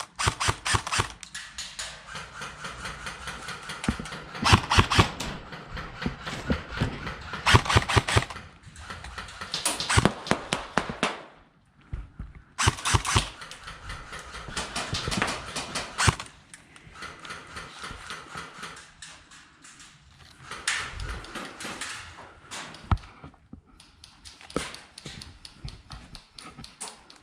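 Airsoft guns firing: bursts of rapid, sharp clicking shots, several to a second, with short pauses between the bursts.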